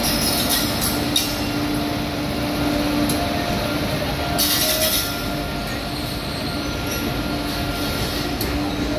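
WAG-9 electric locomotive hauling a container freight train, rolling slowly past with a steady rumble and a steady hum. Light clicks come in the first second, and a brief high hiss comes about four and a half seconds in.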